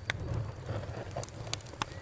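Wood campfire burning and crackling over a steady low rumble, with a few sharp pops: one right at the start and two close together near the end.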